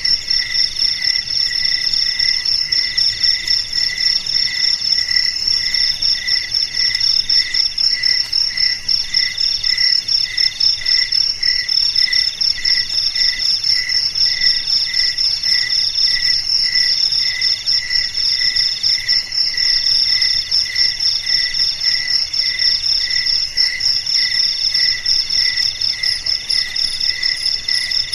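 Chorus of crickets, several chirping at once at different pitches. A high, rapid, steady trill runs over a lower chirp repeating about twice a second, and a middle trill comes in phrases of about a second with short breaks.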